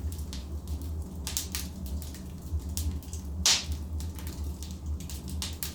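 Wood logs burning in a fireplace, crackling with irregular snaps and one loud pop about halfway through, over a low steady rumble.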